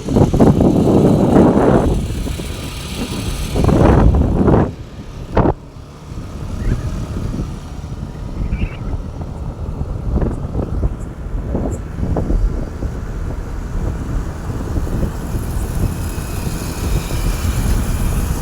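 Road vehicle running, with a steady low rumble and several loud rushes of noise in the first five seconds.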